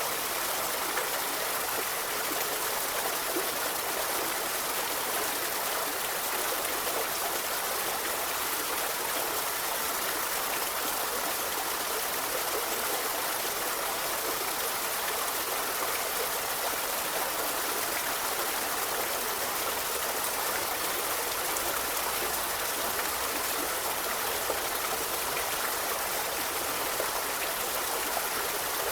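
Forest river flowing over stones: a steady, even rushing and babbling of running water.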